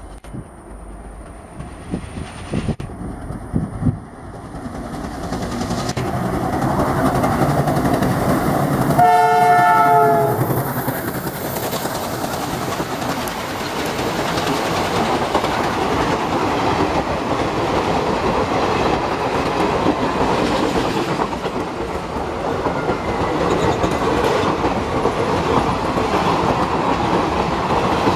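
Indian Railways passenger train approaching, growing louder, then running past: the locomotive gives one horn blast about a second long, and the coaches follow with steady wheel rumble and rail clatter.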